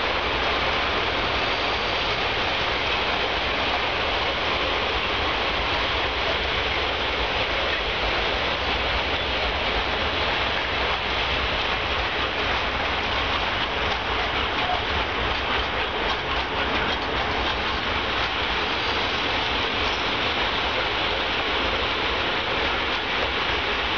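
Loaded open-top freight wagons of a goods train rolling past on the track: a steady noise of wheels running on the rails that does not let up.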